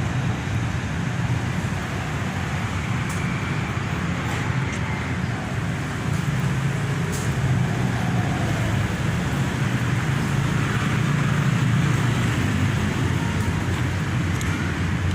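Steady, low rumble of vehicle engines and traffic noise, with a few faint clicks.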